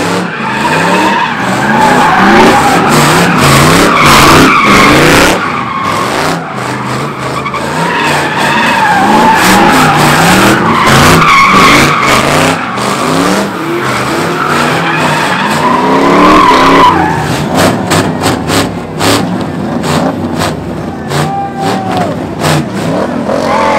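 A car spinning donuts: the tyres screech while the engine revs rise and fall over and over. About two-thirds of the way through the screeching dies down and a quick string of sharp pops follows.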